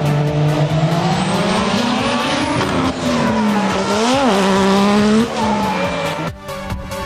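A drift car's engine revving, its pitch rising and falling with the throttle and peaking sharply about four seconds in, while the tyres squeal through the slide. Electronic dance music with a beat comes back in near the end.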